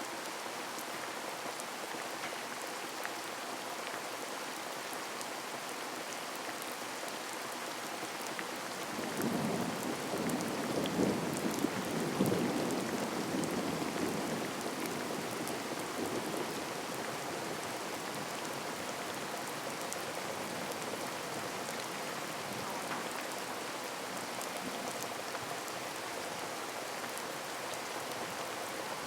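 Heavy rain falling steadily, with a low rumble of thunder that swells about nine seconds in, peaks a few seconds later and dies away after about seven seconds.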